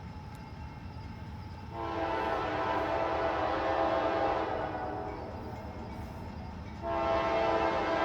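Locomotive air horn sounding, several tones at once: a long blast starting about two seconds in and fading, then a second blast starting near the end, over the low rumble of an approaching train.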